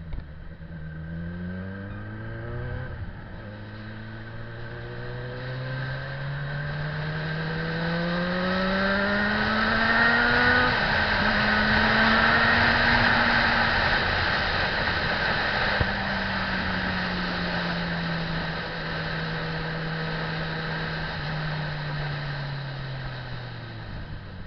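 Motorcycle engine accelerating, its pitch climbing and falling back twice as it shifts up through the gears. It then holds speed and slowly winds down near the end, with a rush of wind and road noise that is loudest at top speed.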